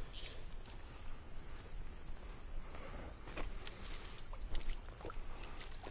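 Steady high-pitched buzzing of summer cicadas, with scattered faint splashes and knocks of water and a landing net being handled.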